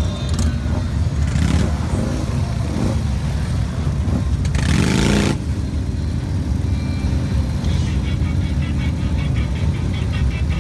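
Motorcycle engines running, with a steady low rumble, and one revving up briefly about halfway through.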